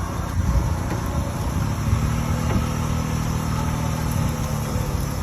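Large farm tractor's engine running, with a steady drone that sets in about two seconds in and fades near the end, over a low rumble.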